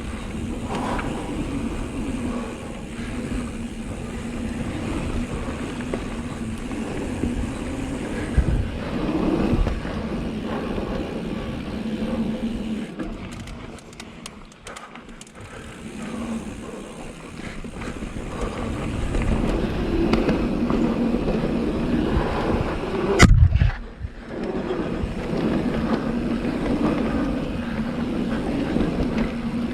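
Full-suspension mountain bike rolling fast down a dirt trail: steady tyre and ride noise with wind on the helmet or chest camera, easing off for a few seconds mid-way, then a single hard thump late on, as from a landing or a hit on a root or rock.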